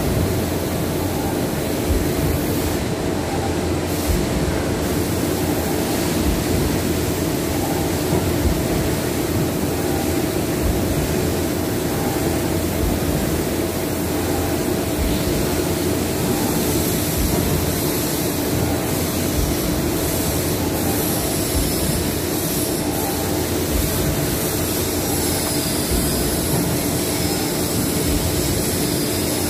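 Industrial machinery running steadily, a constant mechanical drone with a steady hum; faint wavering high whistles come in during the second half.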